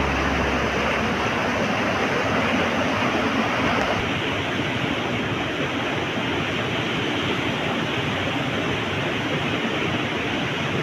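Mountain river water rushing steadily over and between rocks.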